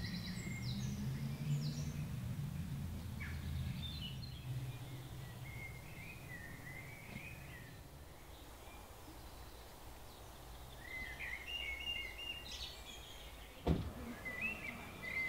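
Songbirds chirping and warbling in a garden, over a low rumble that fades away during the first few seconds. A single sharp knock near the end.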